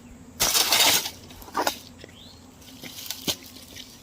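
Shovel scraping and scooping through gravel and dirt: a loud half-second scrape about half a second in, a shorter one at about a second and a half, and a sharp click near the end.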